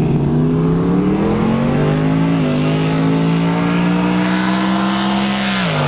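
Race car accelerating hard down the drag strip at full throttle, its engine note climbing steadily with a brief dip about two and a half seconds in, then dropping sharply near the end.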